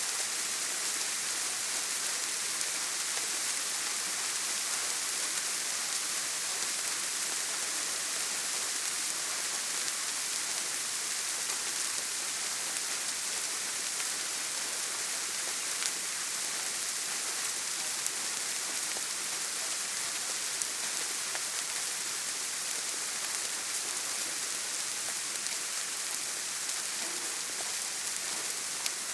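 Steady heavy rain falling on a tin roof, an even hiss with a few louder single drops ticking now and then.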